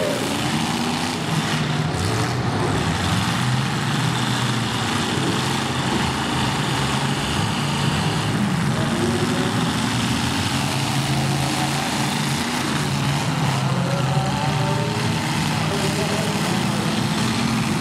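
Engines of several demolition derby cars running together as a dense, steady mix, with some of them revving up and down.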